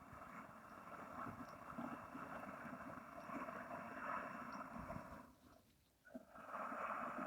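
A person's slow, audible breathing through a long drawn-out breath, with a short pause about five seconds in before the next breath begins, as in Daoist abdominal breathing practice.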